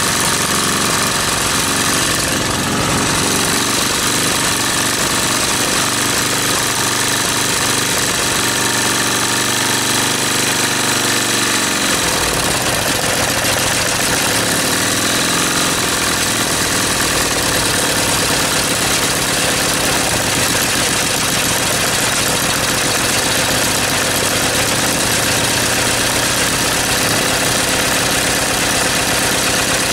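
Small petrol engine with a carburettor running steadily, its speed changing about twelve seconds in. It doesn't like running slowly, and its inlet valve is still leaking a bit, which the owner thinks is probably part of the problem.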